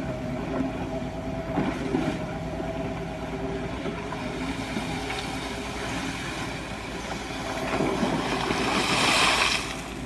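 Excavator engine running steadily, with a louder, noisy rush that builds about eight seconds in and drops away just before the end.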